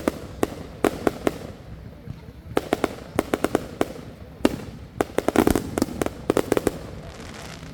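Consumer fireworks going off: volleys of sharp bangs and pops, several a second, coming in bursts with short gaps between them. The densest, loudest volley comes a little past the middle.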